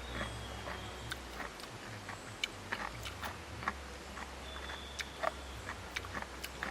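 Scattered, irregular sharp clicks and crackles, with a faint high steady tone heard twice, near the start and again past the middle.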